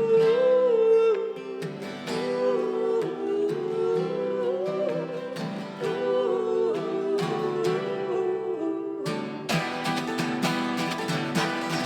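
Live acoustic guitar strumming with held, wavering sung notes between the lines of a song. About nine seconds in the guitar sound turns brighter and fuller.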